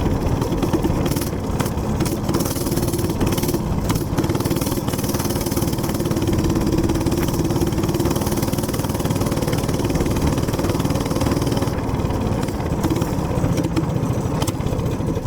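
Gas minibike engine running steadily at riding speed, with wind rushing over the microphone.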